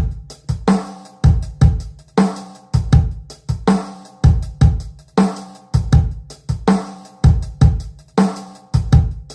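Korg synthesizer improvisation looped on a Boss loop pedal: a repeating electronic drum pattern with kick, snare and hi-hat under a pitched synth tone, the loop cycling about every one and a half seconds.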